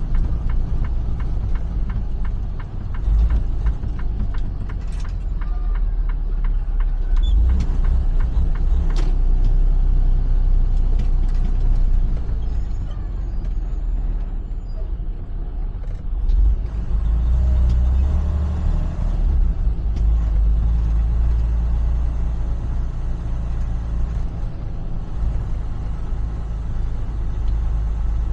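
Semi-truck diesel engine running under a steady low rumble, heard from inside the cab as the rig moves slowly. A regular clicking runs through the first eight seconds or so.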